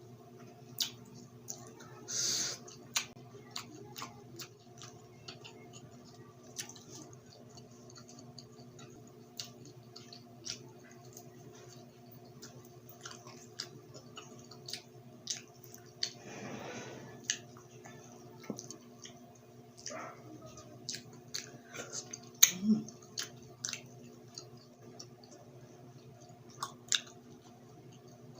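Close-miked chewing of grilled pig ear, with irregular wet mouth clicks and crunchy snaps scattered throughout.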